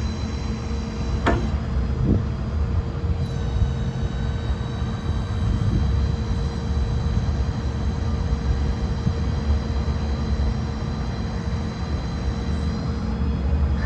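Bucket truck engine running steadily, a low rumble with a steady whine above it, and a sharp click a little over a second in.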